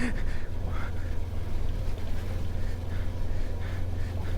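Motorcycle running while being ridden over rough off-road track, a steady low rumble with no change in pitch.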